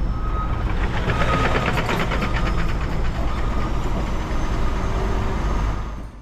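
Heavy diesel truck engine running steadily, with a rapid pulsing rattle for a couple of seconds about a second in. The sound falls away just before the end.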